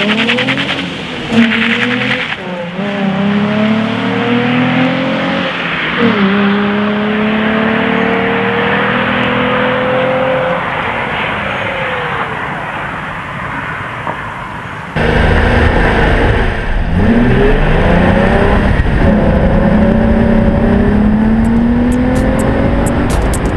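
Nissan 350Z's 3.5-litre V6 exhaust under hard acceleration through the gears: the note climbs, drops at each upshift, then climbs again. About fifteen seconds in it cuts to another run, louder and deeper, again pulling up through several gears.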